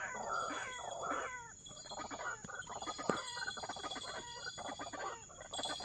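White-breasted waterhens (ruak-ruak) calling: a few loud falling croaks, then fast, rapid chattering calls.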